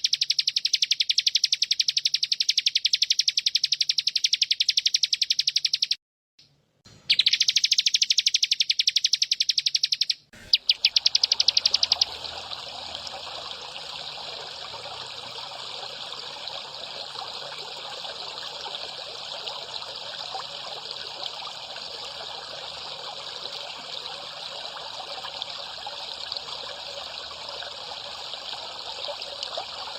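A recorded master call plays a fast, very even pulsed trill, high-pitched, which stops briefly twice and then ends about twelve seconds in. Steady trickling water follows for the rest.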